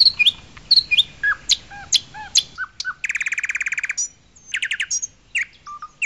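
Several songbirds chirping and calling in short whistled notes, with a rapid trill lasting about a second about three seconds in.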